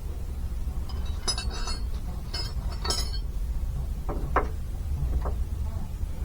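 Metal wrenches clinking against each other and against metal: three quick, bright clinks with a short ring in the first half, then two duller knocks.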